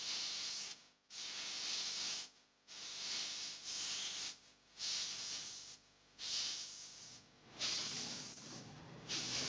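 Hissing strokes repeated about once a second, each lasting roughly a second with short gaps between, running on without a break near the end.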